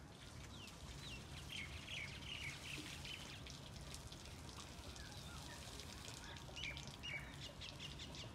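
Birds chirping in many short, quick calls, with a faint low steady hum underneath.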